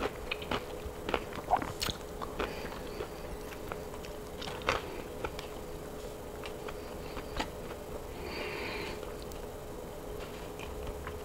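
Close-miked eating: biting and chewing pieces of baked chicken, with many short wet mouth clicks, over a faint steady hum.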